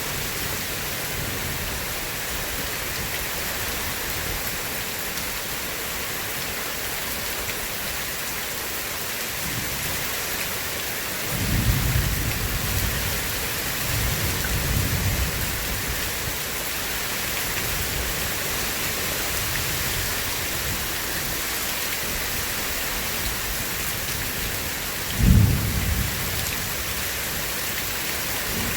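Steady rain hissing down, with rolls of thunder: a rumble about twelve seconds in, another soon after, and a louder, sharper clap about twenty-five seconds in.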